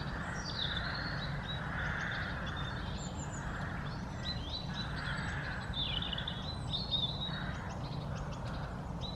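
Birds calling outdoors: high chirps and trills of small songbirds over repeated harsh caws of corvids, with a steady low rumble underneath.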